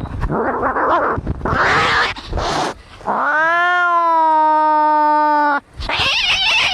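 Domestic cats fighting: rough, noisy snarling, then one long yowl about three seconds in that rises and then holds for over two seconds before cutting off, followed by more snarling.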